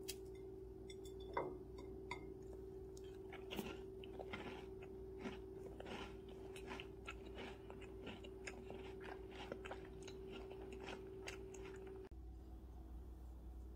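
Close-up chewing of a soft chocolate chip cookie sandwich with cream filling: a few sharp crackles as it is broken and bitten, then moist, crumbly chewing at about two chews a second. A steady low hum underneath cuts off near the end.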